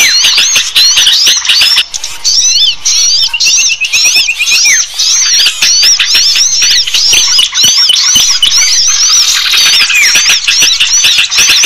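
Bird-trapping lure recording of many small birds calling at once: loud, overlapping quick up-and-down chirps and twitters, with a short run of fast, even ticking notes about three seconds in.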